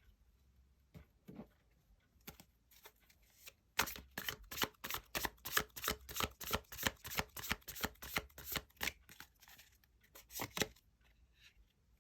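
A tarot deck being shuffled by hand: a quick, even run of card slaps, about four a second for some six seconds, then two more after a short pause.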